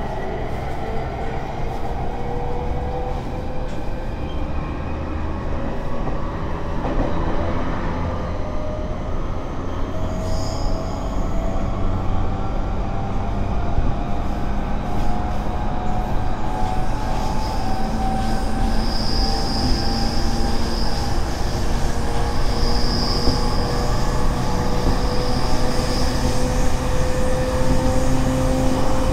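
Electric commuter train accelerating away from a station, heard from inside the car. Its motor whine rises slowly and steadily in pitch while the wheel and track rumble grows louder. Short high squeals come about ten seconds in and again later.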